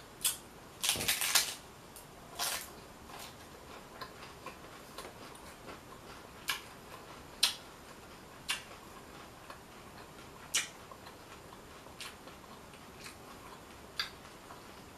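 A hard corn taco shell crunching as it is bitten and chewed close to the microphone. The crunches are short and sharp, with a dense run about a second in, then single crunches every one to two seconds.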